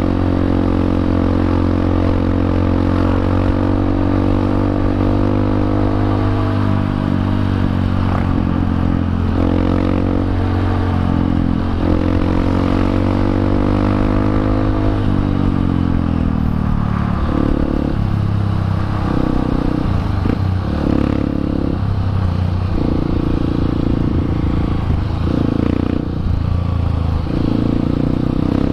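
Honda CRF150L's single-cylinder four-stroke engine running through a Norifumi aftermarket exhaust as the bike is ridden: a steady engine note for the first half, falling away about halfway through, then rising and dropping every second or two.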